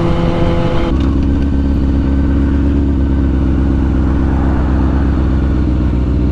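Motorcycle engine running, its note dropping to a lower pitch about a second in and then holding steady.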